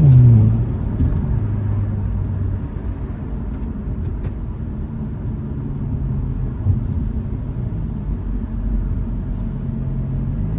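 Hyundai Elantra N's turbocharged 2.0-litre four-cylinder engine, heard from inside the car while driving. The revs drop sharply at the start, the engine holds steady low revs under road and wind rumble, and it picks up again near the end.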